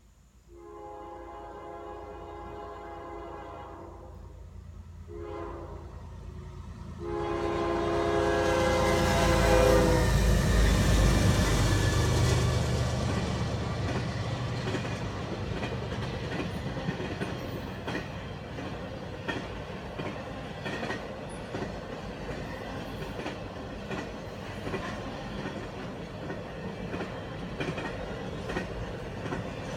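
A CSX diesel locomotive sounds its horn for the grade crossing: a long blast, a short one, then a long one held as it reaches the crossing. It is followed by the loud rumble of the locomotive passing, then the steady clickety-clack of the stack train's well cars rolling by.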